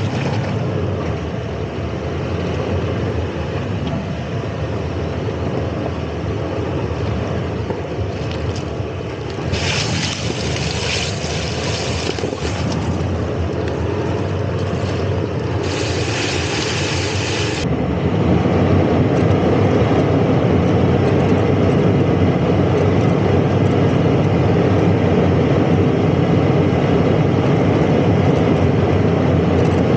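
Toyota 4Runner running off-road: steady engine and drivetrain noise. Two spells of hiss come through, one about ten seconds in and another around sixteen seconds. Just before eighteen seconds the sound steps up suddenly to a louder, deeper run that holds steady.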